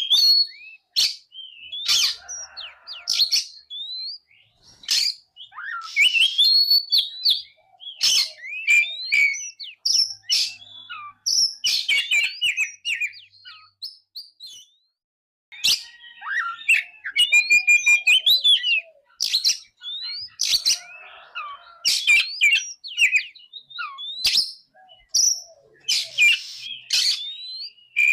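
Oriental magpie-robin (kacer) singing: a varied run of whistled phrases and quick glides mixed with harsh, scratchy notes, with a brief pause around the middle and a fast run of repeated notes after it.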